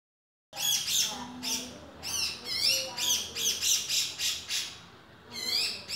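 Male grey-cheeked bulbul (cucak jenggot) singing. It starts about half a second in with a fast run of sliding, warbling notes, several a second, and eases off briefly near the end before picking up again.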